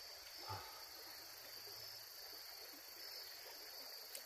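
Steady insect chorus, a continuous high-pitched drone, with one faint brief low sound about half a second in.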